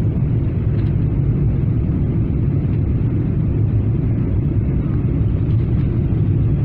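Steady low rumble inside the passenger cabin of a Boeing 777-300ER, the drone of its GE90 turbofan engines and the airflow around the fuselage.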